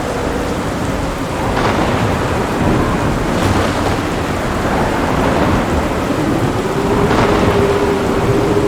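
Heavy rain falling steadily with low, rolling thunder, and brief crackles about 1.5, 3.5 and 7 seconds in.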